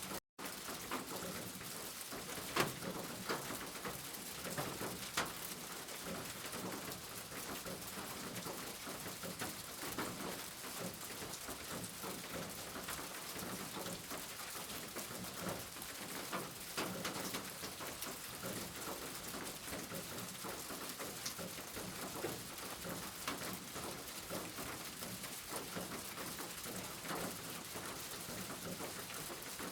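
Steady rain falling, an even hiss with scattered louder drops ticking on a surface. The sound cuts out for an instant just after the start.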